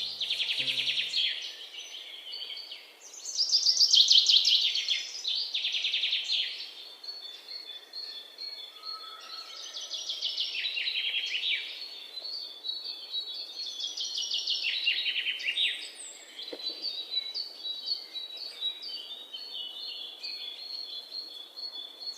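Small birds singing in rapid chirping trills, phrase after phrase overlapping, with a thin steady high note running beneath.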